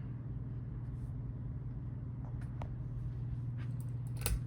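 Kmart Alaska 42-inch ceiling fan running: a steady motor hum with the low rush of the blades, and a few light clicks in the second half, the loudest a little past four seconds in.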